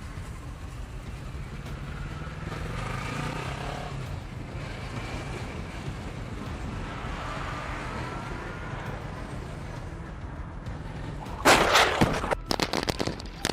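Steady rumble of a vehicle on the road, then about eleven and a half seconds in a sudden loud burst of noise with several sharp hits lasting about two seconds, typical of a crash impact.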